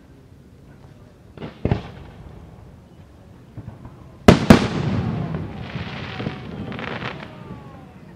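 Fireworks display: two duller bangs about a second and a half in, then two sharp, loud shell bursts a little over four seconds in. The bursts are followed by a long rolling echo and crackling.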